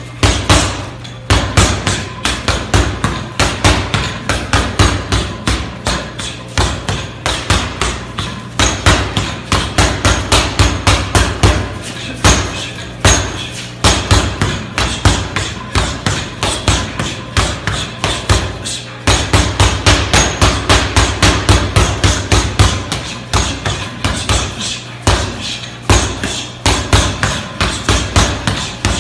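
Speed bag being hit in a rapid, steady rhythm, the bag rattling against its rebound board in fast repeated knocks, with a brief break about a second in and another about two-thirds of the way through.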